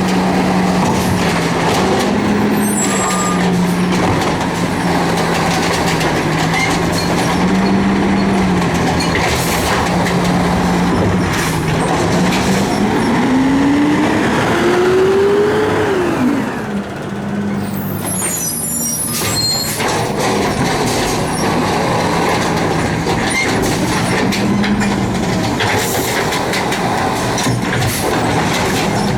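Garbage truck engine running, its pitch climbing steadily for a few seconds about halfway through and then falling back sharply. A hiss of air brakes follows, and the engine starts climbing again near the end.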